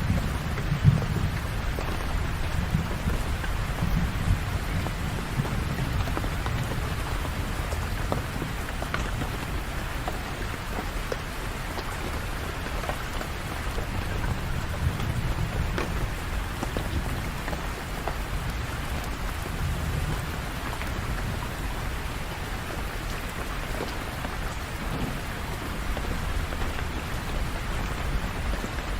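Steady rain falling, with individual drops ticking against surfaces, over a low rumble of distant thunder that is strongest in the first half and fades in the second.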